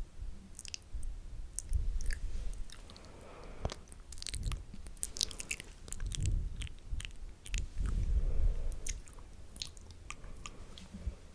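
Wet, spitty ASMR mouth sounds close to a sensitive microphone: irregular sharp clicks and smacks of lips, tongue and saliva over low, muffled bumps.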